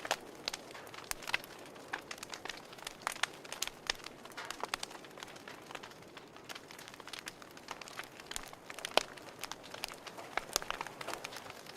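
Wood fire crackling in a fireplace: irregular sharp pops and snaps over a soft steady hiss, with one louder pop about nine seconds in.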